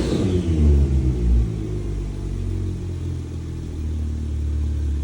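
Porsche 911 Turbo S twin-turbo flat-six with an aftermarket Brilliant exhaust, its revs dropping back from a throttle blip in the first second or so, then settling into a steady low idle during a cold start.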